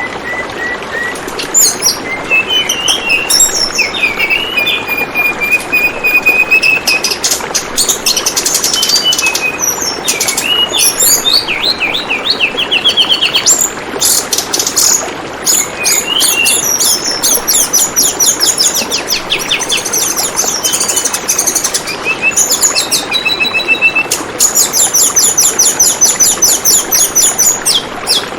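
Tledekan bambu songbird calling: high chirps and rapid trills in quick series, the trills densest and fastest near the end. Steady trickling flowing water runs underneath.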